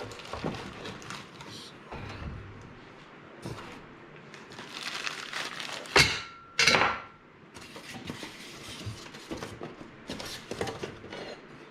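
Metal parts of a mobile base being handled and unpacked from a box: scattered clinks, rustling, and two sharp clanks about six seconds in, the second with a brief ring.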